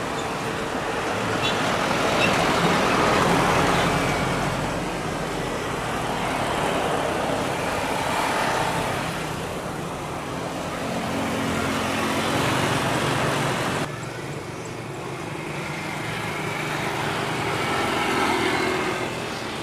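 Jet airliner noise, a steady rush that swells and fades: an ANA Boeing 787-9 after touchdown. About fourteen seconds in it cuts off abruptly into a Garuda Indonesia Airbus A330-343 at the start of its take-off.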